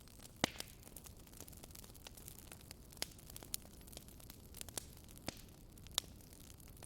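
Wood fire crackling in a fireplace: a low steady hiss with frequent irregular sharp pops, the loudest about half a second in and another near the end.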